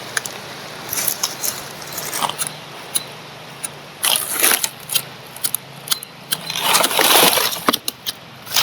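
Dry sugar-palm fibre (ijuk) crackling and rustling as a fire is kindled, with scattered sharp clicks and snaps. Two noisy swells of strong wind, about four and seven seconds in.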